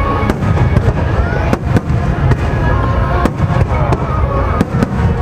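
Aerial fireworks bursting in quick succession: sharp bangs, often more than one a second, over a continuous low rumble, with music playing along.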